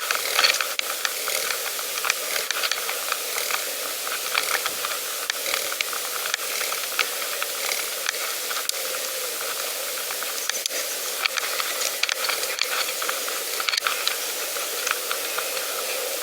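Pedal bicycle riding along a path: a steady hiss of tyres and rushing air, with many small clicks and rattles from the bike.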